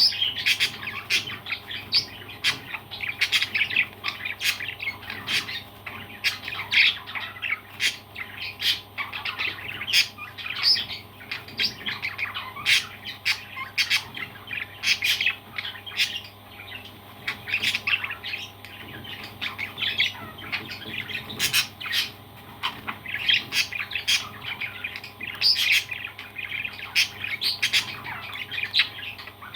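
Parrots squawking and chirping without a break, calls overlapping, with many short sharp clicks among them.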